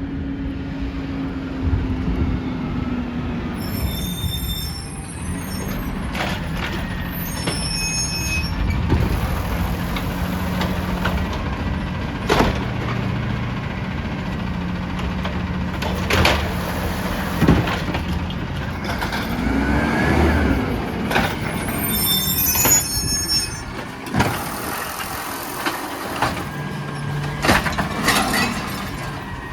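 Peterbilt 320 trash truck running steadily, with repeated sharp knocks and bangs and a few short high-pitched squeals.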